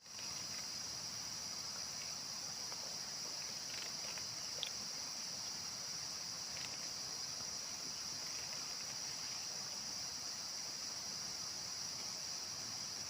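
Steady, high-pitched drone of an insect chorus of crickets or cicadas, with a few faint short chirps about four and six seconds in.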